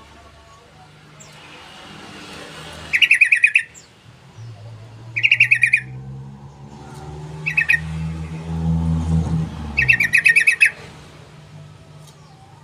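Yellow-vented bulbul (trucukan) calling in four short bursts of fast, rattling repeated notes a couple of seconds apart. A low motor hum swells under the middle bursts and falls away near the last one.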